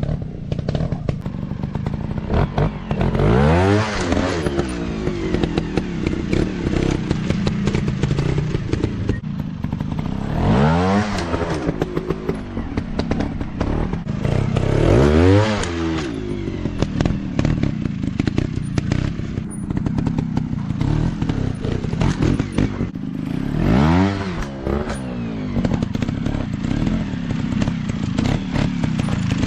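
Off-road dirt bike engines running, revved up sharply and back down about four times, with frequent knocks and clatter throughout.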